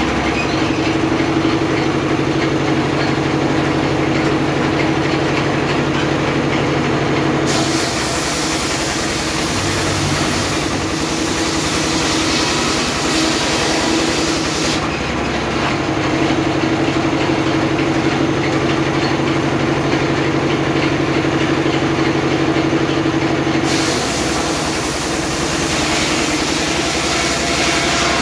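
Homemade circular saw running steadily while sawing teak into rafters, with two long stretches of added high-pitched noise, one from about a quarter of the way in to halfway and another starting near the end.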